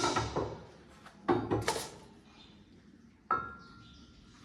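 Metal tools being handled and put down: a few clinks and clatters, then a sharp metallic clank about three seconds in that rings briefly.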